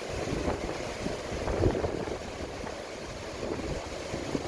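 Sea waves washing in, an irregular rushing of water with a louder surge a little under two seconds in.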